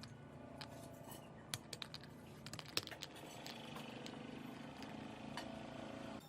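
A scatter of light clicks and taps, then a steady hum from about three seconds in that stops shortly before the end.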